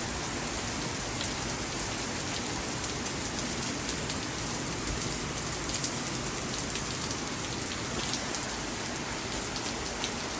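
Steady rain falling, with scattered sharper taps of drops striking a surface.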